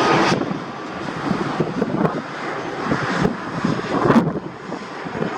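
Airliner engine noise, loudest at the start and dropping off sharply about a third of a second in, then going on as an uneven rumble that surges irregularly.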